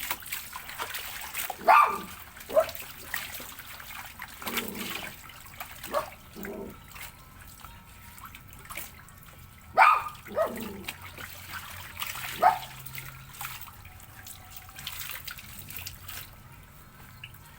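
A puppy giving several short yelps that fall in pitch, loudest about two seconds in and again near ten seconds, over the trickle and splash of water from clothes being washed by hand.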